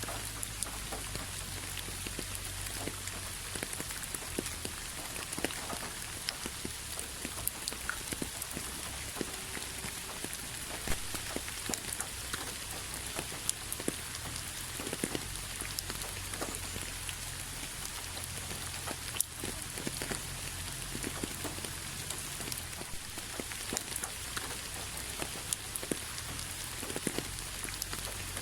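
Steady rain falling on a hard surface, a continuous hiss with many distinct drops ticking irregularly, over a low rumble.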